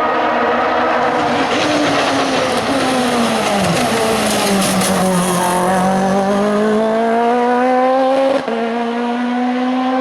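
Race car engine at high revs going past at close range: the engine note drops midway as the car slows and passes, then climbs steadily as it accelerates away, with a brief break near the end as it shifts up a gear.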